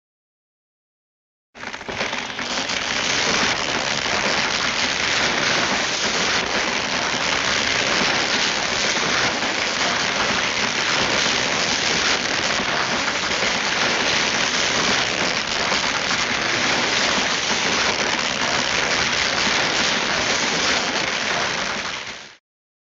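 A steady, even hiss of dense noise like heavy rain, starting abruptly about a second and a half in and cutting off sharply just before the end.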